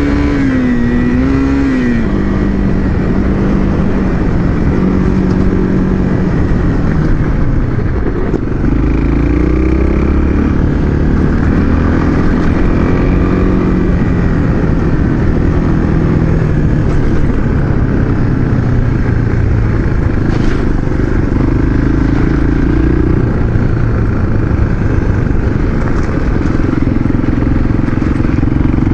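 Motorcycle engine running while being ridden, its pitch rising and falling with throttle and gear changes.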